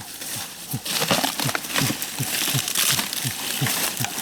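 An animal's low grunting calls in a steady rhythm, about three to four a second, over a crackling rustle.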